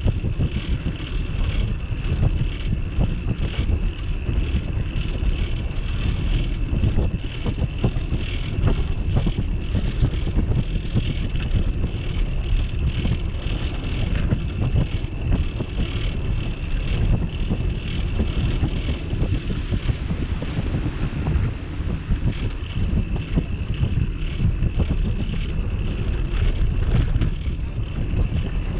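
Wind buffeting the microphone of a camera mounted on a moving bicycle, a steady low rumble with many small rattles and ticks from the ride over the path.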